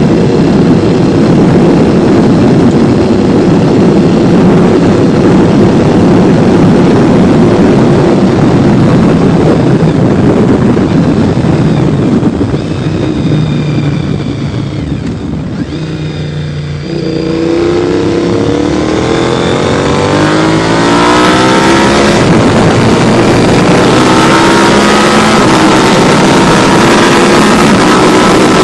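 Honda VTR1000 SP1's 90-degree V-twin, breathing through titanium exhausts, running hard at steady high revs. About halfway it eases off and goes quieter, then revs up again in several rising climbs in pitch.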